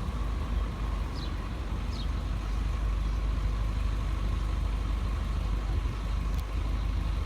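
Isuzu box truck's engine idling steadily, a constant low rumble, with a few faint high chirps in the first two seconds.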